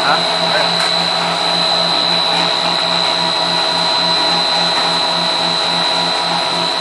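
Snack-food production line machinery running: a steady mechanical drone with a high whine held throughout and a low hum that pulses quickly and evenly.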